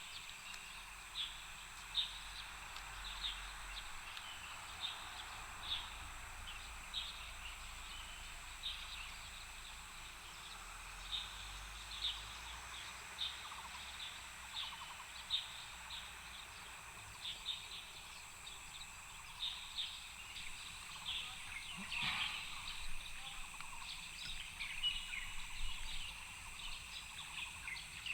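Birds chirping: short high chirps repeating about once or twice a second over a steady high-pitched hiss. About 22 seconds in, a single falling whistle sweeps down from high to low.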